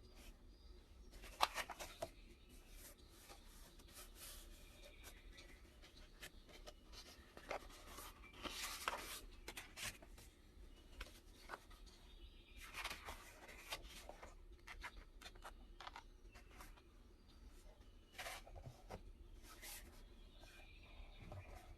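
Quiet handling of paper at a desk: rustling, rubbing and scraping strokes with scattered light clicks, coming in short clusters.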